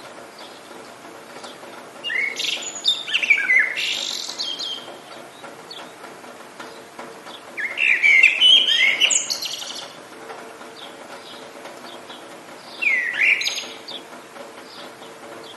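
A songbird sings three loud phrases of quick, falling whistled notes: the first about two seconds in, the second near the middle, the third shortly before the end. Fainter chirps from other birds come between the phrases, over a steady faint hiss.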